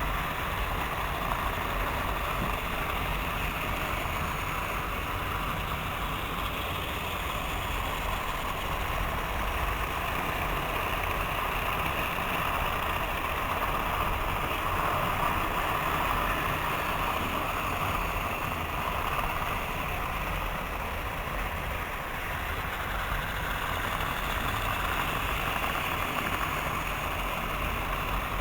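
Several model trains running steadily around their track: a continuous whirr of small electric motors and wheels on the rails.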